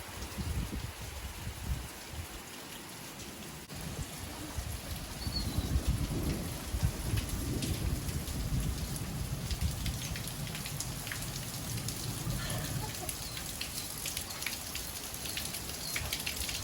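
Rain falling, with a low rumble of thunder from about four seconds in until near the end.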